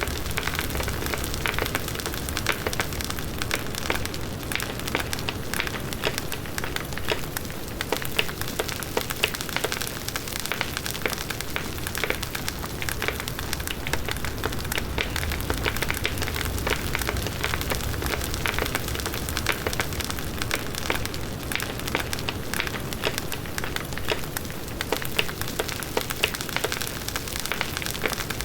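Large wood bonfire burning: a dense, continuous crackle of small pops over a low rumble of the flames.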